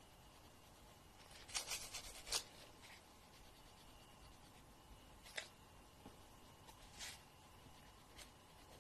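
Faint, short scraping strokes of fingernails being filed: a quick run of strokes about two seconds in, then single strokes every second or two over a near-silent background.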